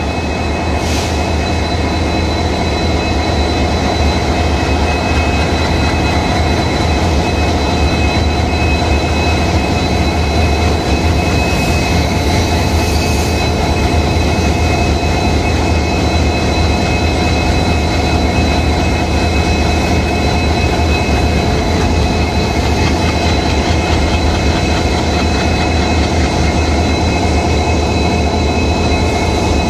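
Indian Railways passenger train rolling slowly past, its coaches and wheels making a steady low rumble, with thin steady high-pitched whines above it.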